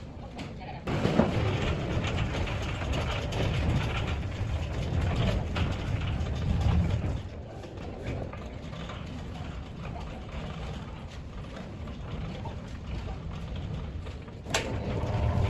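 Motorised gate moving along a curved steel floor rail, its drive motor and wheels rumbling on the track. It is louder for the first several seconds, then quieter, with a sharp click near the end.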